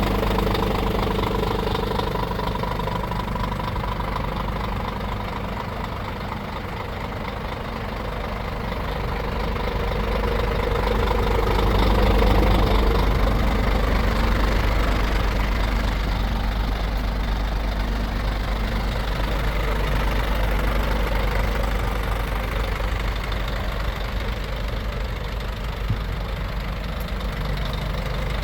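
Scania G440 truck's 13-litre inline-six diesel engine idling steadily, growing louder for a few seconds around the middle.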